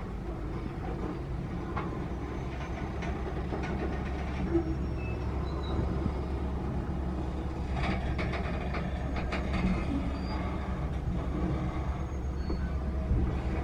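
Freight train of open-top hopper cars rolling past a level crossing: a steady low rumble with scattered clacks and knocks from the wheels and cars, heard from inside a car.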